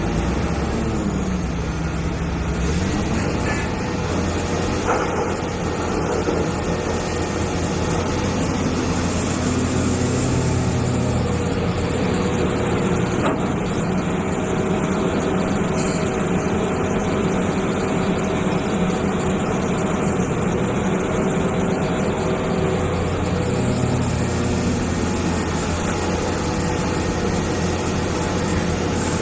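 Hitachi EX450 excavator's diesel engine running steadily under work. Its pitch dips in the first few seconds and rises again a couple of times later on.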